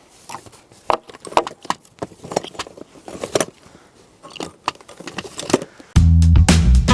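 Irregular clicks and light rattles of small hard objects being handled, then loud background music with electric guitar and bass starts suddenly about six seconds in.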